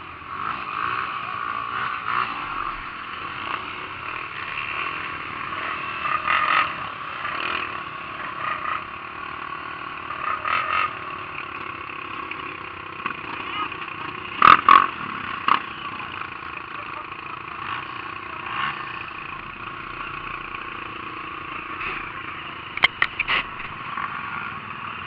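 Off-road motorcycle engine running steadily, with a few sharp knocks about fifteen seconds in and again near the end.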